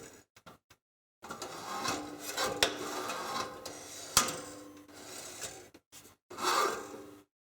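Toaster parts being handled during assembly: metal and plastic rubbing and scraping, with two sharp clicks, cut into short pieces with silent gaps between them.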